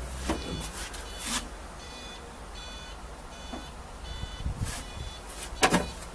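Reversing alarm on a 1994 Case 580 Super K loader backhoe, beeping about once every 0.8 s over the machine's low diesel engine running. A few sharp clanks come through, the loudest near the end.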